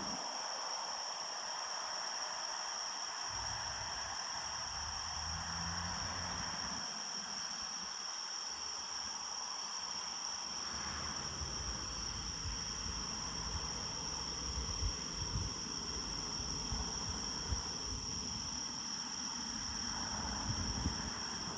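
A night chorus of singing insects, one steady high shrill note that does not let up. Underneath it a low rumble comes and goes.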